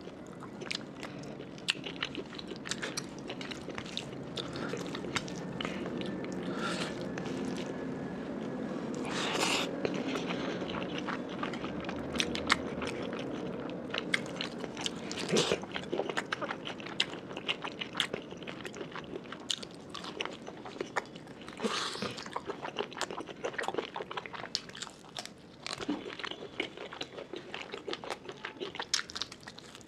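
Close-miked eating sounds of rice with pork and fish curry eaten by hand: steady chewing with frequent wet mouth clicks and smacks.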